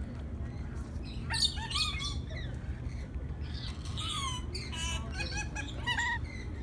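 Lorikeets squawking in short, harsh, screechy calls, coming in several clusters with pauses between them.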